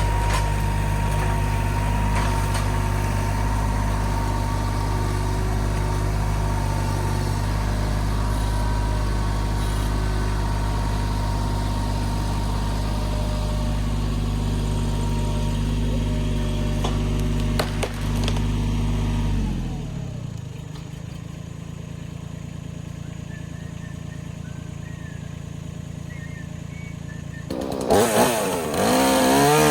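An engine idling steadily, which winds down and stops about two-thirds of the way through. After a few quieter seconds, a chainsaw starts near the end and revs up and down.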